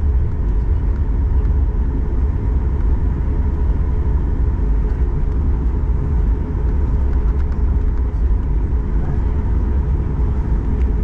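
Steady low rumble inside the cabin of a Boeing 737 MAX 8-200: jet engine and airframe noise, even in level throughout with a faint steady hum above it.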